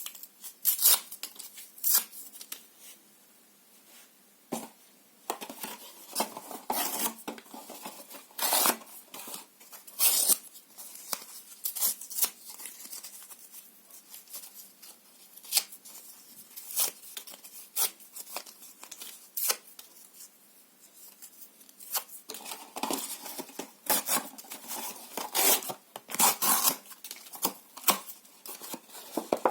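Paper and cardboard being torn by hand, close-up: short, irregular rips and tears coming in clusters, with brief pauses between them.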